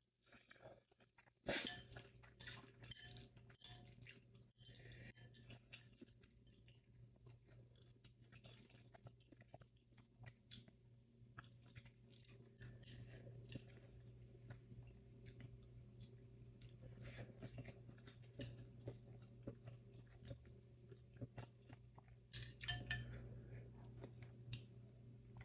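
Quiet, close-miked chewing of spicy instant ramen noodles, with small wet clicks from the mouth. The sound is louder about a second and a half in and again near the end.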